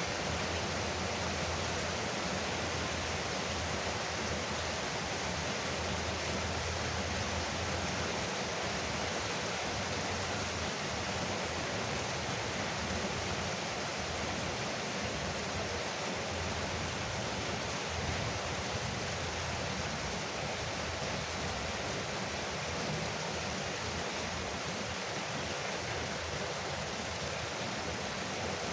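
Steady rain falling on a porch roof, an even hiss with a low rumble that swells and fades.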